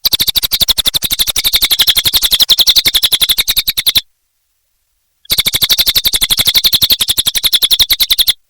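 A cililin bird singing in full song: two long, rapid trills of short notes at about a dozen notes a second. The first trill lasts about four seconds and the second starts about a second after it stops.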